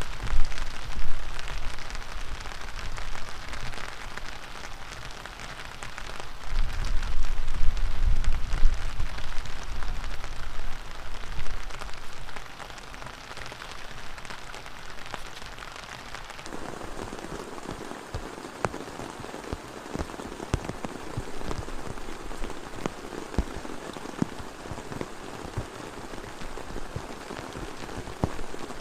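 Heavy rain falling, with gusts of strong wind rumbling on the microphone in the first half. About halfway through the sound changes abruptly to steady rain with many close, sharp drop taps.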